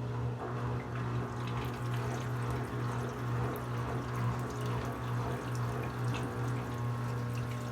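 Brastemp BWK17 17 kg washing machine running mid-cycle: water rushing and sloshing in the machine over a steady low motor hum.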